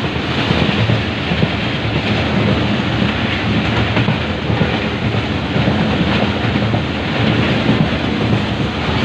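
Passenger train running at speed: a steady rumble of coach wheels on the track mixed with the rush of air past an open coach window.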